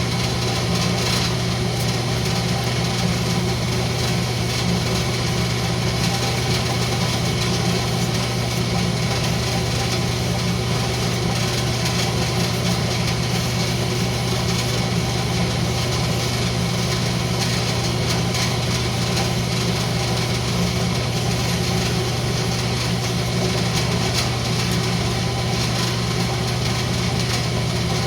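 Wood lathe running steadily at constant speed: an unbroken motor hum with an even whir above it.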